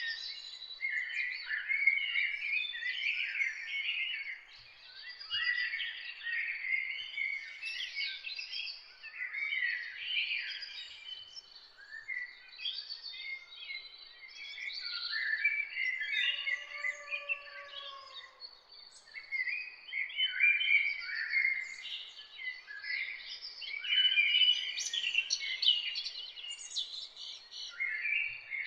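Several songbirds singing and chirping at once, a dense overlapping chorus of quick chirps and trills, with a faint steady high tone beneath and a brief lower call about two-thirds of the way through.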